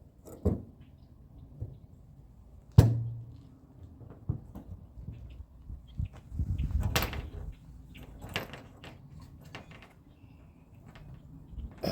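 Clicks, knocks and scraping of metal parts being worked by hand as a lock cylinder and its retaining clip are fitted into a 1957 Chevrolet Bel Air's trunk. A sharp knock with a short low ring about three seconds in is the loudest, and there is a stretch of rubbing and handling noise just after the middle.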